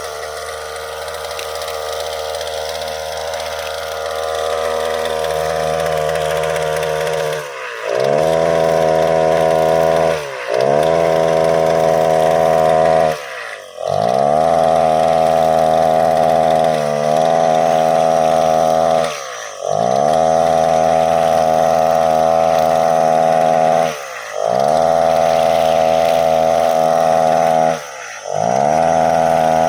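Brushcutter engine running steadily at low speed, then from about eight seconds in at high revs, the speed sagging briefly and picking up again every three to five seconds, six times. The owner says this brushcutter, unused for six months, runs rough ("semput").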